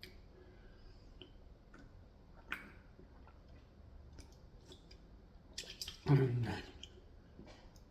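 Faint chewing and mouth sounds with scattered small clicks, then a short voiced sound from the eater about six seconds in.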